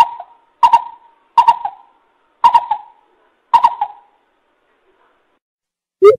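Coucal (bubut) calling: a series of sharp, ringing notes about a second apart, then a pause, and near the end a fast run of deep hoots begins.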